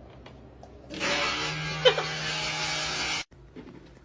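A small motor whirring steadily with a low hum, starting about a second in and cutting off suddenly, with a brief higher-pitched sound over it near the middle.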